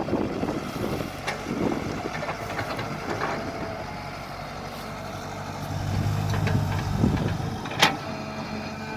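Mini excavator engine running steadily, working harder about six seconds in, with one sharp knock near the end.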